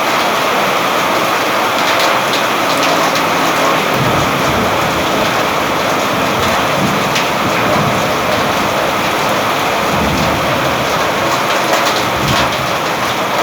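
Steady rain falling, with a low rumble of thunder that comes in about four seconds in and rolls on under the rain.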